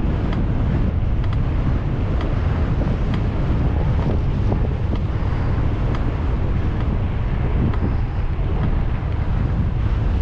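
Wind buffeting the microphone while riding a bicycle: a steady, loud low rumble of wind noise.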